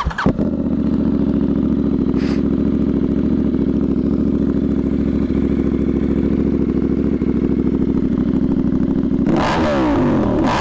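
A 2025 KTM 990 Duke's parallel-twin engine through a budget aftermarket exhaust with the silencer box removed and the catalytic converter kept, lovely and loud. It comes in with a burst at the start and idles steadily, then is blipped and revved up and down several times near the end.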